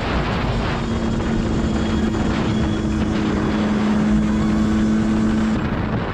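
Honda CRM125's single-cylinder two-stroke engine running at a steady cruising speed, its note holding pitch under a rush of wind on the microphone; the engine note changes near the end.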